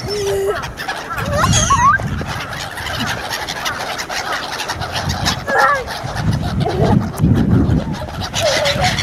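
A flock of birds calling, with repeated squawking calls that glide up and down in pitch, over an uneven low rumble.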